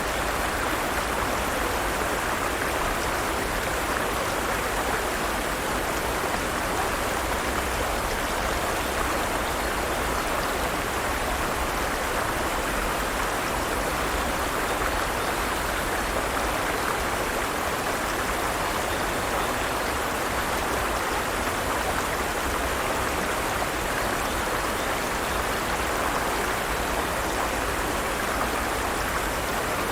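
Forest stream flowing steadily over rocks, an even rushing of water that stays the same throughout.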